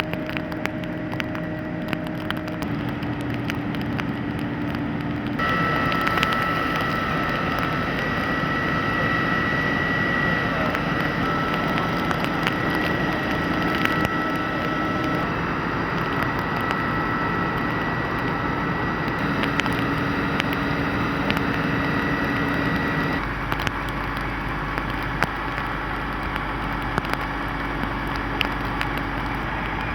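Steady running of fire appliance engines at a fire scene, with scattered crackles. The sound changes suddenly about five seconds in and again about twenty-three seconds in.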